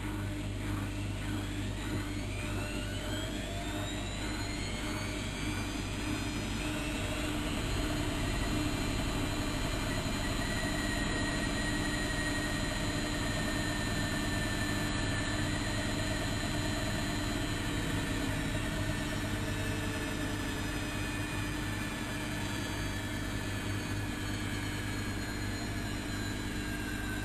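Bauknecht WAK7760 washing machine's motor whining as the drum speeds up for a spin. The whine rises in pitch over the first several seconds, then holds steady at speed over a low hum.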